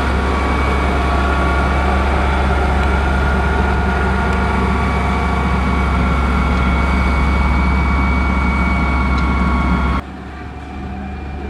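Diesel engine of heavy road-construction machinery running steadily and loudly, with a deep hum and a steady whine over it. About ten seconds in, the sound cuts abruptly to a quieter engine sound.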